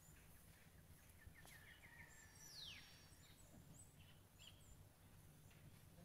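Faint wild bird calls over a low steady background: scattered high chirps, a short run of quick notes about a second in, and one falling whistle about two and a half seconds in.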